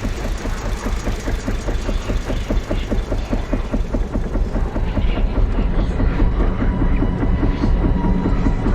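Petrol lawnmower engine running with a rapid, even pulsing.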